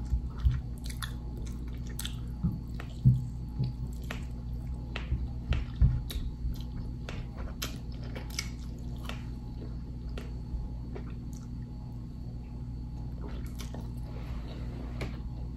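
Close-miked chewing and wet mouth smacks and clicks of someone eating sauced barbecue pork ribs off the bone, busier in the first half and thinning out later, over a steady low hum.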